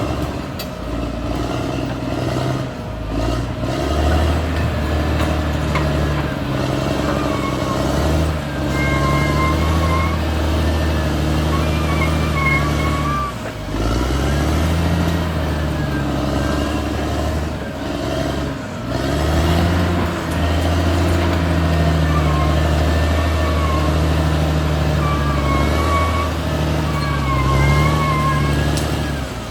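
Caterpillar D6R XL bulldozer's diesel engine running under load, its pitch sagging and rising again every few seconds as it works. A wavering high whine comes and goes over it.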